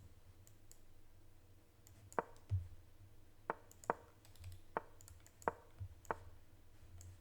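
Clicks of moves being played in a fast online chess game: about half a dozen sharp, separate clicks scattered over a few seconds, with a few soft low thumps between them.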